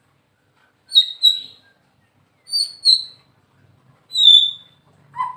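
White-rumped shama (murai batu) singing short whistled phrases. There are three phrases, each of one or two clear high notes, about a second and a half apart with silent pauses between; the last note falls slightly.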